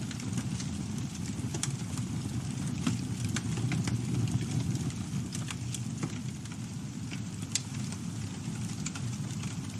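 Campfire burning, with a steady low rumble of flames and frequent sharp crackles and pops from the burning wood at irregular moments.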